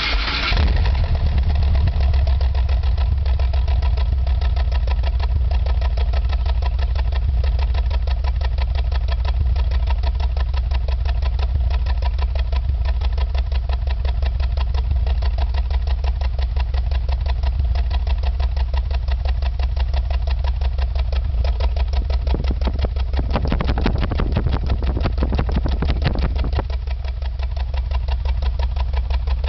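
Subaru Impreza GC8's flat-four boxer engine starts and then idles with a pulsing exhaust, which the owner takes for a misfire. About three-quarters through, the sound changes for several seconds, then settles back.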